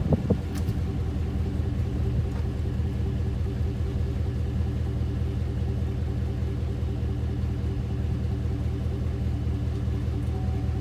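The 2017 Chevrolet Silverado's 5.3-litre V8 idles steadily through an open exhaust: no muffler, the resonator pipe disconnected and dumping before the rear, and the exhaust valve held fully open. It gives a low, even rumble that is not especially loud. A brief rising sound comes right at the start.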